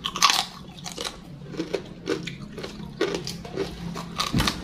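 Close-up wet chewing of raw leafy vegetables and chilli dipped in sambal: many short, irregular crunches and moist mouth smacks.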